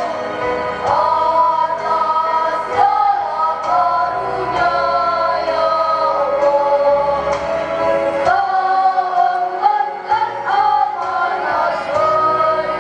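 Children's choir singing a slow hymn over an instrumental backing with steady bass notes.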